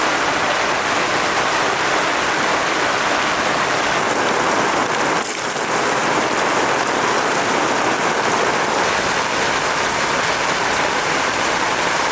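A steady downpour of rain, an even, loud hiss.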